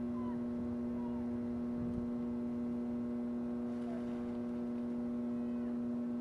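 A steady, even hum on one pitch with fainter overtones above it, unchanging throughout, with faint distant voices under it.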